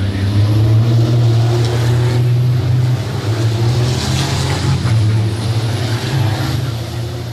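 Racing trucks' diesel engines running, a loud, steady, deep engine drone with shifting engine notes above it, easing slightly near the end.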